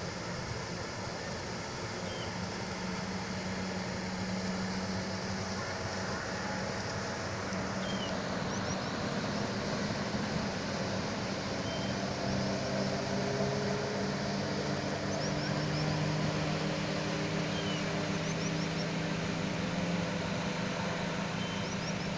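Engines running steadily over a continuous rushing noise that grows slowly louder, with a faint high pulsing whine above.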